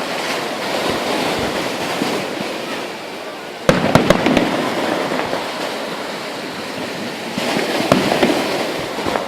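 Fireworks going off: a sudden loud bang about a third of the way in and another burst near the end, each followed by a long crackling tail of small pops.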